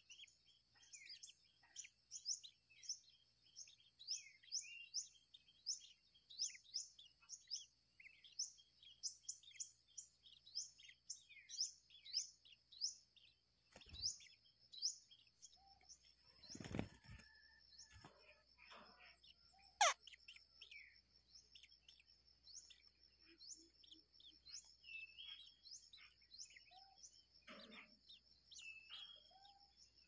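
Faint small-bird chirping: a quick series of short, high, rising chirps, two or three a second, thinning out after the middle, over a steady thin high-pitched hum. A few sharp knocks and a brief rustle come near the middle.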